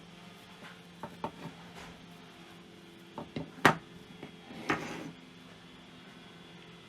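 Small clicks and knocks of parts and tools being handled during a cassette deck repair, the loudest a sharp knock about halfway through, followed by a brief scraping rub, over a faint steady hum.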